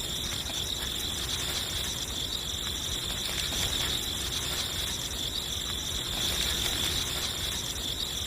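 Steady, high-pitched insect trill like crickets chirring, over a faint hiss.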